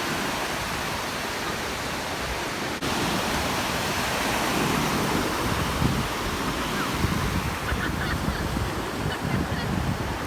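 Ocean surf washing onto the shore, a steady rushing noise, with wind rumbling on the microphone.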